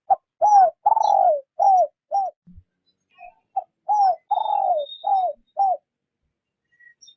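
Spotted dove cooing in two phrases of about six short, downward-curving coos each, the second phrase starting about three and a half seconds in. This is the 'rút bổi' cooing pattern of a decoy dove, the kind used to lure wild doves.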